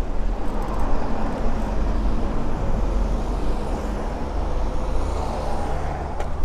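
Steady low wind rumble on the microphone, mixed with outdoor road noise, while riding a bicycle.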